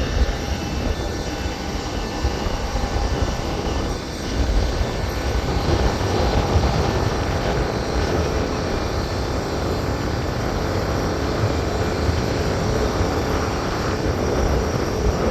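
Airliner's jet engines running at low power on the apron, a steady rumble with faint whining tones over it.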